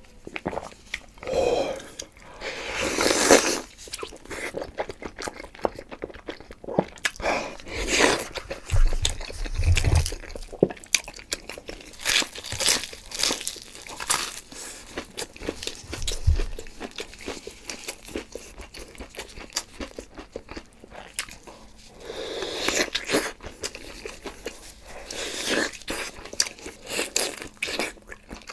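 Close-miked eating: repeated crunchy bites and chewing, full of sharp crackles.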